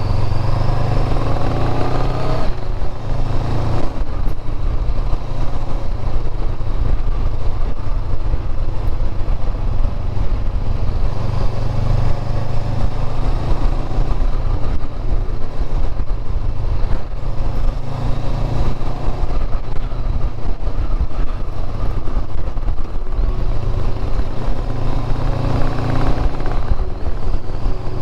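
Motorcycle engine running at road speed, mixed with steady wind and road rush; the engine note rises and falls a couple of times, most clearly in the first seconds and again near the end.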